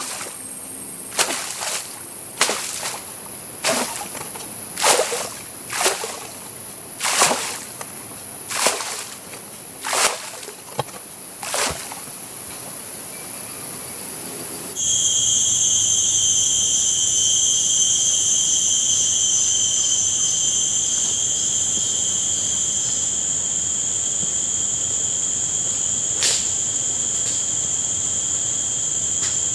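Night insects chirring steadily in high, unbroken tones. In the first half about ten short, sharp swishes come roughly a second apart over a single high tone. About halfway the chirring changes abruptly to several steady high tones.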